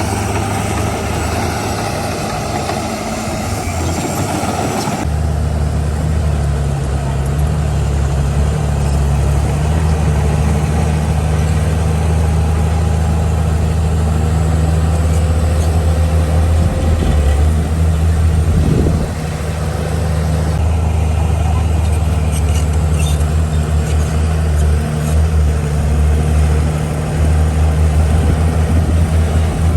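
Heavy diesel engine of earthmoving equipment running steadily, its sound changing abruptly about five seconds in.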